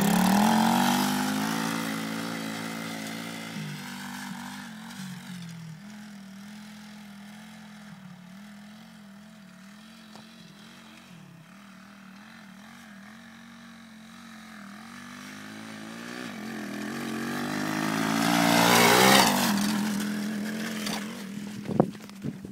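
125cc dirt bike engine running at steady throttle as the bike rides away and fades to a distant drone, then comes back and passes close about nineteen seconds in, its pitch dropping as it goes by, before fading again.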